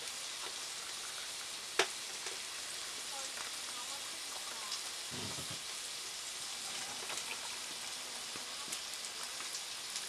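Steady sizzle of breakfast frying in a pan on the stove, with a sharp click about two seconds in and a short soft thump about five seconds in.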